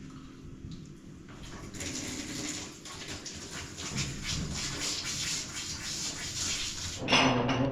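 Water running in a steady hiss that starts about two seconds in, with a short, loud pitched sound breaking in near the end.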